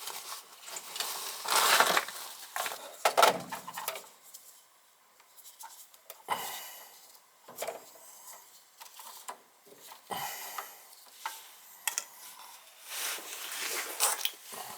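Rummaging and handling of tools and small parts: rustling for the first few seconds, then scattered light clicks, knocks and clinks.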